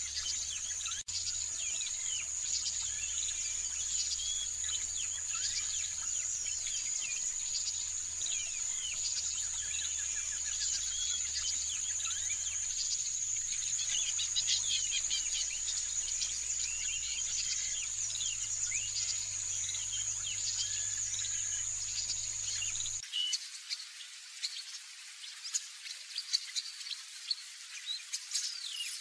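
Birds chirping and singing in many short, quick notes over a steady high-pitched insect buzz. About two thirds of the way through the buzz stops abruptly and only sharper, sparser bird chirps remain.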